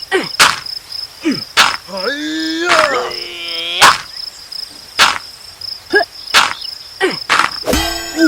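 Crickets chirping steadily in the background, broken by repeated sharp knocks. There is a pitched sliding squeal about two to four seconds in, and a short rapid rattle near the end.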